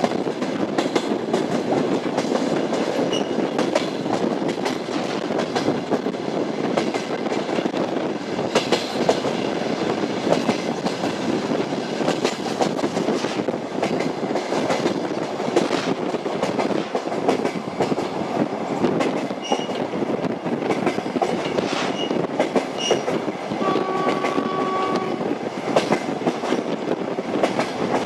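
Train wheels clattering over rail joints on a running train, over a continuous rolling rumble. About 24 seconds in, a single steady note sounds for over a second.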